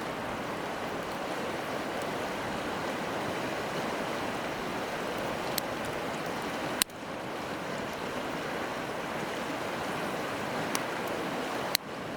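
A wood campfire giving a few sharp pops, the loudest about seven seconds in, over a steady rushing of river water.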